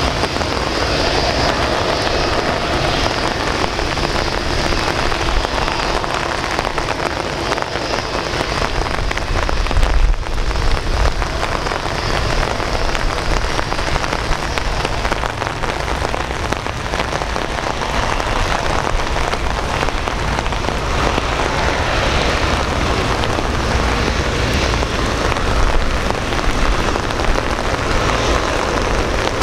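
Steady rain hiss, with the faint high whine of a Boeing 787-8's engines at taxi power that fades about halfway through.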